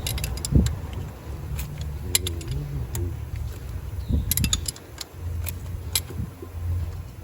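Metal hand tools clinking and tapping against metal while a wrench works bolts loose: irregular sharp clicks, a small cluster about four seconds in, over a low steady hum.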